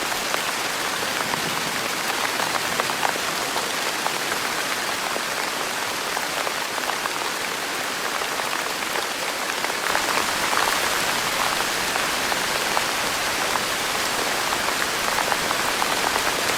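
Heavy rain falling steadily: a dense hiss with a fine patter of drops, a little louder from about ten seconds in.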